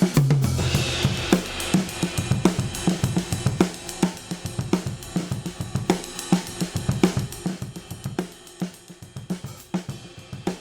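Acoustic drum kit playing a steady groove of kick, snare and hi-hat, recorded through a stock dbx 119 compressor blended in parallel with the dry signal. A cymbal crash rings near the start, and the playing gets quieter toward the end.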